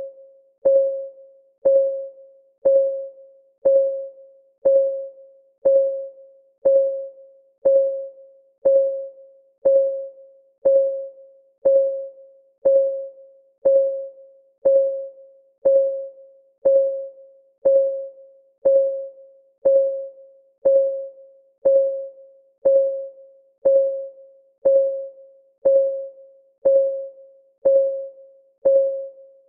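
Countdown timer's clock-tick sound, one tick a second, each a sharp click with a short mid-pitched ring that fades before the next.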